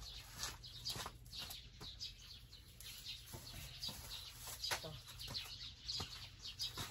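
Birds chirping repeatedly in short high calls, with a few faint knocks.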